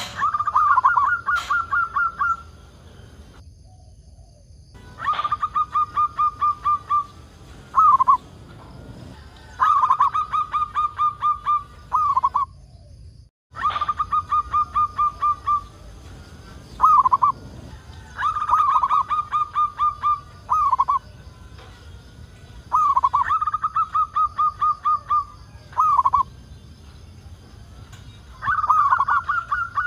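Zebra dove (perkutut) cooing. It repeats phrases of a lead note, a rapid run of staccato coos and a closing note, about every four to five seconds. The sound drops out completely twice, briefly.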